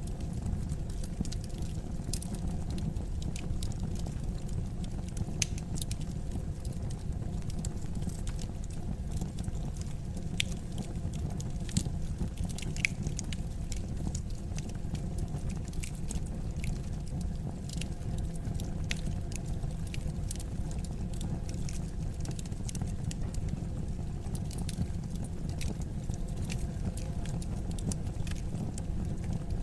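Wood fire crackling in a fireplace: irregular sharp pops and snaps over a steady low rumble of the burning fire, with a few louder pops scattered through.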